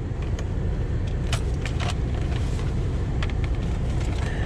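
A car engine idling with a low steady hum, while tools, a battery charger and tangled wires are shifted around on the passenger seat with scattered clicks and rattles.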